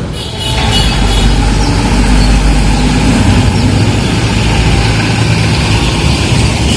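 Diesel engine of an Eicher 5025 tipper truck running close by. It gets louder about half a second in, then holds steady.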